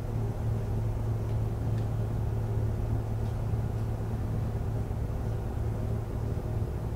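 Steady low hum inside a JR East 101-series electric train car, holding one pitch with no rising motor whine, plus a couple of faint small ticks.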